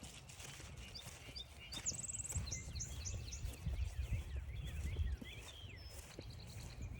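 Wild songbirds calling and singing, with a rapid high trill about two seconds in followed by a run of short down-slurred notes, over a steady low rumble.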